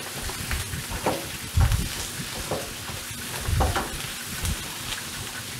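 Diced potatoes and vegetables sizzling in a frying pan on a gas hob while being stirred with a wooden spatula. Steady frying hiss with small crackles, and a couple of dull knocks of the spatula and pan, about a second and a half in and again around three and a half seconds.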